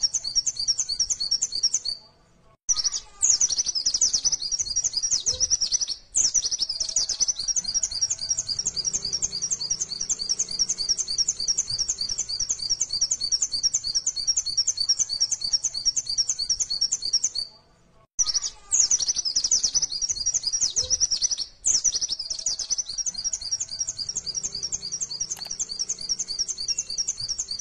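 Songbird chirping in a fast, continuous run of high repeated notes. It breaks off twice for under a second, about two seconds in and again about eighteen seconds in, then starts again with the same passage.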